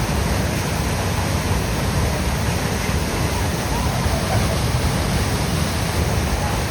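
Waterfall's falling water, a steady, even rush with no break or change.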